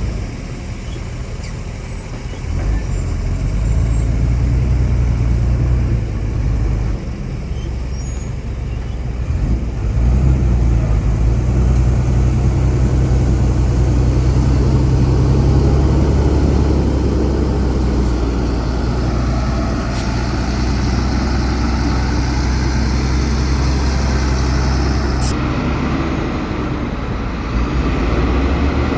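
Heavy diesel engines of earthmoving machinery working a soil fill, a deep continuous drone that dips briefly and then swells louder about ten seconds in.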